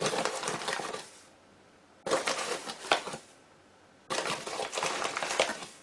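Granulated sugar poured from its bag over crumble topping in three shakes about two seconds apart, each a gritty pattering that lasts just over a second.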